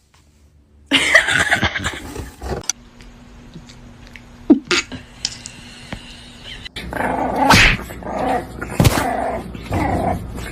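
A dog vocalizing in several separate bursts of barks and growls, with a faint steady hum under the quieter middle stretch.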